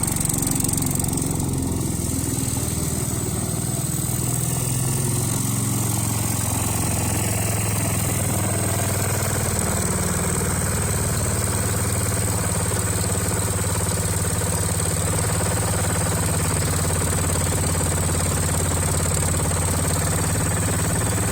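Ford 100 garden tractor's engine running steadily at a fast idle, its pitch shifting slightly in the first few seconds and then holding even. The engine is running again after its ignition points and carburettor were cleaned.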